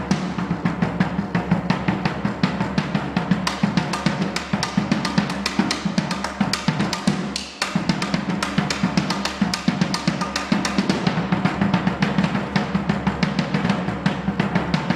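Drum kit played in a fast, continuous drum solo, with snare and bass drum hits following close on one another and a brief let-up about halfway through.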